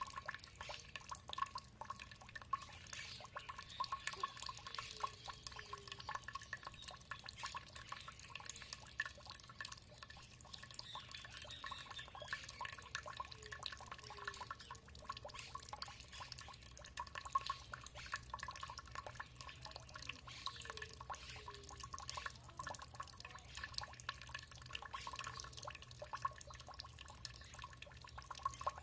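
Water trickling and dripping steadily, a continuous patter of many small drops and plinks.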